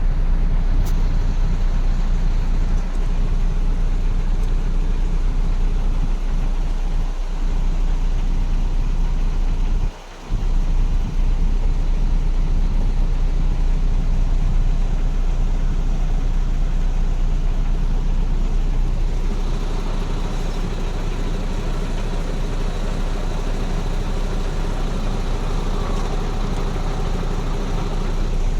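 MAN truck's diesel engine idling steadily, with a brief drop-out about ten seconds in and a brighter, higher sound coming in about two-thirds of the way through.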